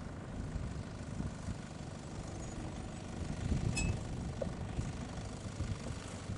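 Four-wheel-drive vehicle towing a camper trailer, its engine running at low speed: a low, steady rumble.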